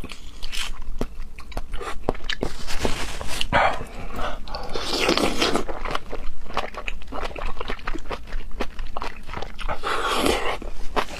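Close-miked chewing of seafood: wet smacking and many small mouth clicks, with a few longer, noisier stretches about a third and halfway through and near the end.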